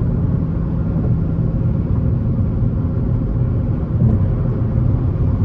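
Dodge Challenger R/T's 5.7-litre HEMI V8 and tyres heard from inside the cabin, a steady low drone while cruising at an easy, even speed.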